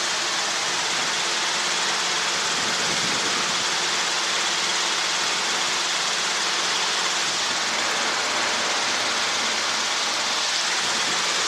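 Steady hiss of Robinson R22 helicopter cabin noise heard through the headset intercom, with faint steady engine and rotor-gearbox tones underneath and no change in level.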